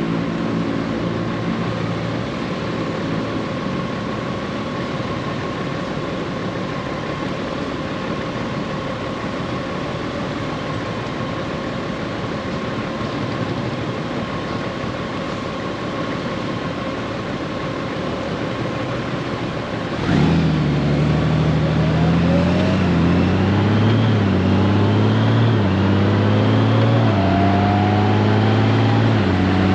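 Honda Gold Wing's flat-six engine and road noise while riding: steady cruising for most of the stretch, then about two-thirds through the engine gets louder as the bike accelerates, its pitch climbing and stepping back down several times as the dual-clutch transmission shifts up.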